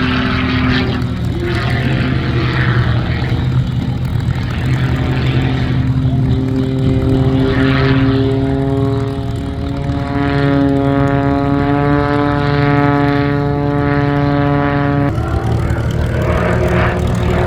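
MXS-RH aerobatic monoplane's piston engine and propeller running at high power, a steady drone with sweeping shifts in tone as the plane moves through its manoeuvres. The engine note jumps abruptly to a different pitch near the end.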